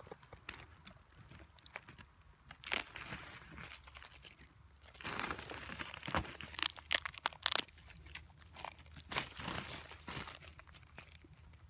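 Irregular crunching, crackling and tearing from close handling of brittle material, with a cluster of sharper crackles between about five and eight seconds in.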